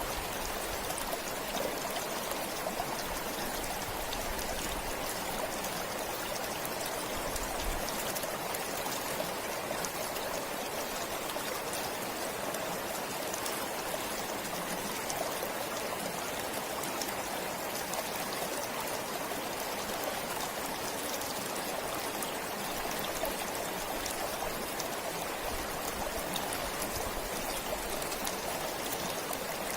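Forest stream flowing steadily: an even, unbroken rush of running water with no change in level.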